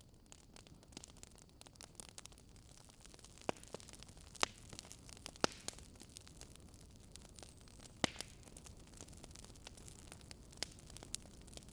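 Wood fire crackling: a steady low hiss with irregular sharp pops and snaps, the loudest about four and a half, five and a half and eight seconds in.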